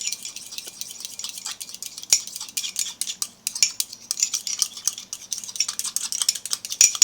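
A spoon stirring and scraping a cookie batter of melted butter, sugar and egg yolk in a mug, with quick irregular clinks against the mug.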